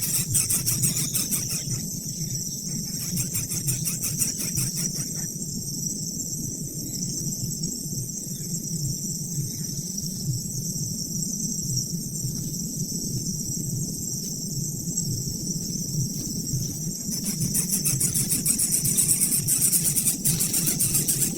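Insects trilling steadily in a fast, even pulse, louder near the start and again near the end, over a continuous low rumble.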